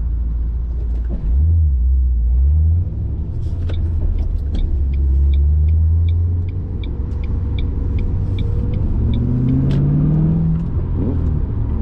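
V8 engine and road rumble of a 2005-09 S197 Mustang heard from inside the cabin while driving, the engine running after its cylinder 3 misfire was fixed. The engine note rises as the car accelerates near the end. A run of evenly spaced clicks sounds for several seconds in the middle.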